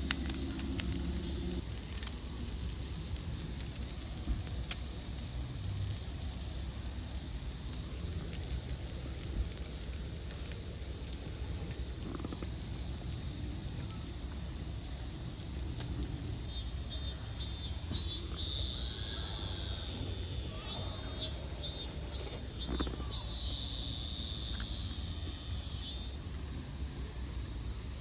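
Outdoor campsite ambience: a steady low rumble with scattered light crackles from a campfire, and from about halfway an insect chirping in rapid pulses for several seconds.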